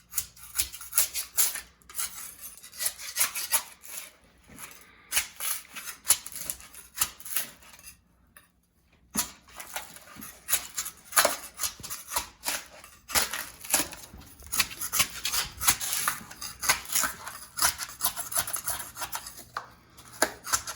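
Rapid, irregular clicking and clattering from hand-worked urethane crack-injection equipment, with a brief pause about eight seconds in.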